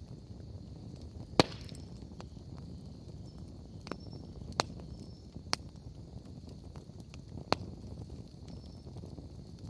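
Wood fire crackling: a steady low rustle of burning logs with about five sharp pops, the loudest a little over a second in.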